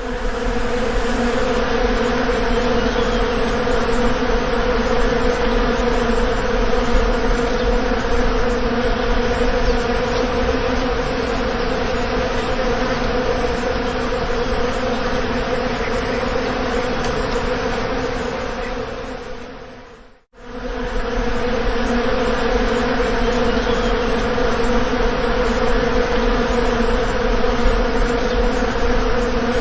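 Bees buzzing in a steady, continuous drone. It fades out to a moment of silence about twenty seconds in, then fades back up and carries on unchanged.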